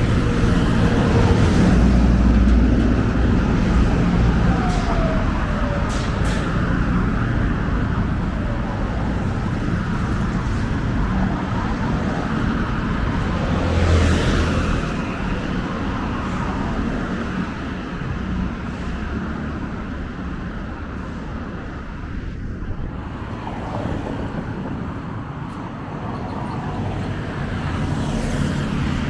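Steady road traffic noise from cars and other vehicles on a busy street, swelling louder about halfway through and easing off for a while before building again near the end.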